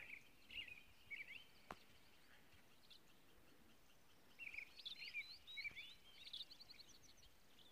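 Faint songbird calls over near silence: a few short chirps, then, about halfway through, a longer run of quick rising and falling chirps and a brief trill.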